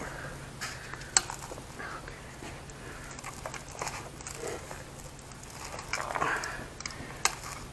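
Hand work on tape-wrapped forms set in cast refractory: scattered light knocks, scraping and crinkling, with one sharp click about a second in.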